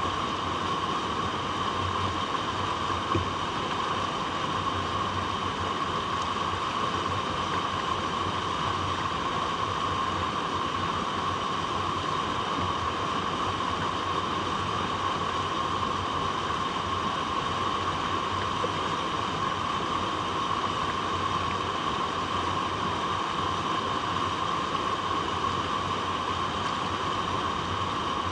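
Flowing water, a continuous, even rush that holds steady without breaks or surges.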